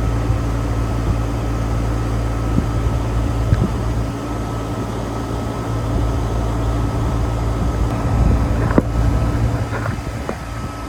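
Outdoor air-conditioning condenser unit running: a steady hum from the compressor and fan, with a few sharp knocks near the end.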